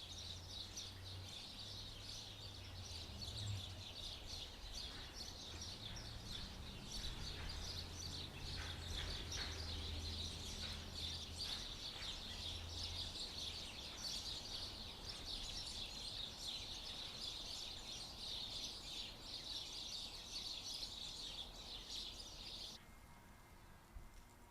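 Many small birds chirping and twittering at once, a dense continuous chatter that cuts off abruptly near the end.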